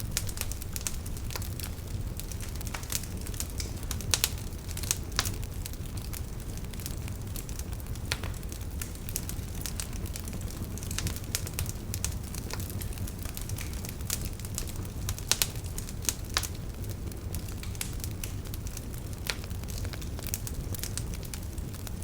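Wood fire burning in a fireplace: steady crackling over a low rumble of flame, with a few louder pops.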